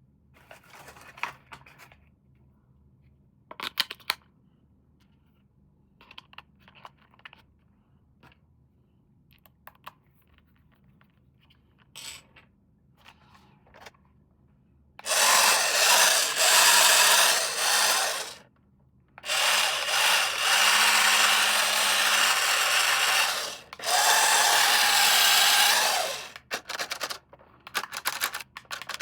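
A small motor whirring loudly in three runs of a few seconds each, after a stretch of light handling clicks and rustles.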